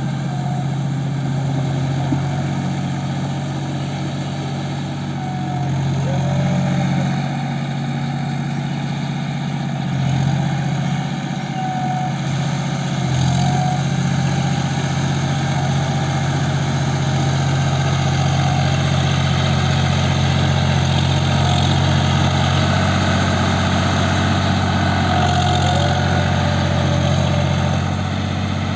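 John Deere 5050D tractor's three-cylinder diesel engine running steadily, a little louder from about halfway through.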